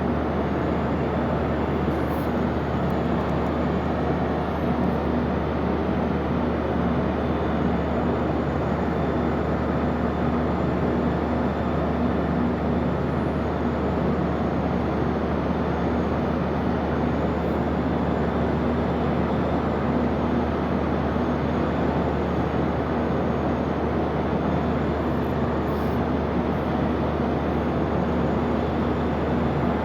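Ship's machinery running with a steady low drone and constant hum.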